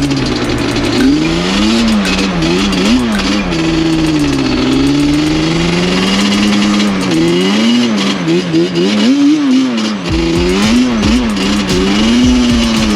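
Quad (ATV) engine revving up and down as it is ridden, its pitch rising and falling again and again, with a few quick throttle blips about eight seconds in.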